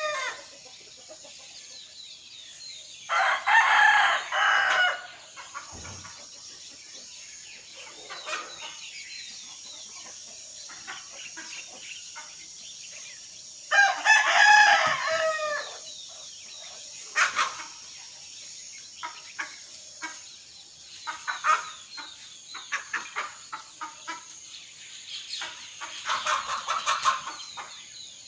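A rooster crowing twice, each crow lasting about two seconds, at about three and fourteen seconds in, with a fainter crow near the end. Small birds chirp in between, over a steady high-pitched insect drone.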